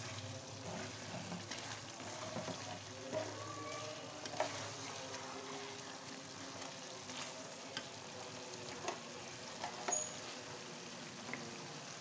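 Chicken karahi sizzling in a metal karahi as a wooden spatula stirs it, with scattered scrapes and knocks of the spatula against the pan. This is the bhuna stage: the masala is being fried down once the oil has separated and risen.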